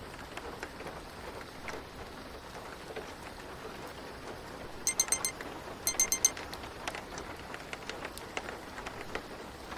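Steady rain with scattered drop ticks. About halfway through, a digital timer alarm beeps twice in quick clusters of high beeps, marking the end of a pomodoro interval.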